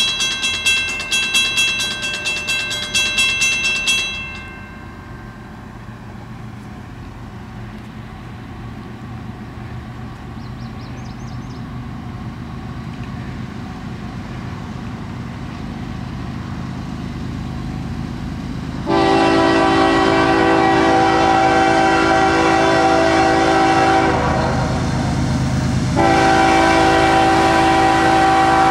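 Freight train approaching at track speed: a low rumble that grows steadily louder. About two-thirds in, the diesel locomotive's air horn sounds a long loud blast, breaks off for a couple of seconds, then sounds again near the end. At the start, a fast repeating ringing stops about four seconds in.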